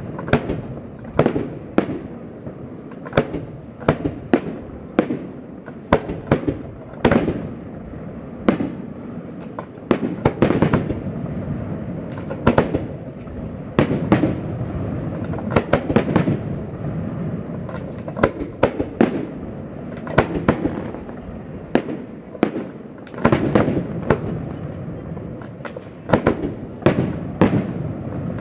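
Aerial firework shells bursting in quick succession in a fireworks display, a sharp bang every second or so, with a steady noise from the ongoing display between the bangs.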